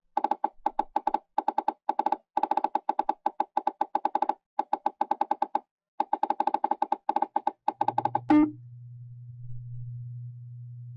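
Electronic sound cues from the VTube-LASER measuring software during FARO Edge laser scanning: rapid short beeps, about six a second, in runs with brief gaps. About eight seconds in the beeps stop with one louder sound that drops in pitch, and a steady low tone follows.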